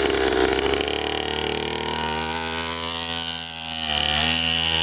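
Pit bike's small single-cylinder engine running, its pitch easing down about three and a half seconds in, then picking back up.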